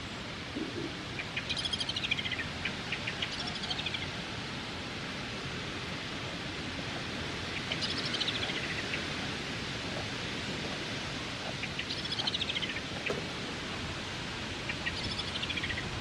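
A songbird singing short falling trills, each a quick run of notes dropping in pitch over about a second, five times at intervals of a few seconds, over a steady outdoor hiss.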